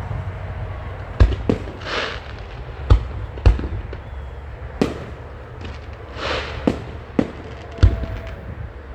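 Fireworks display: a string of about eight sharp bangs from bursting aerial shells, with hissing crackle about two seconds in and again around six seconds in.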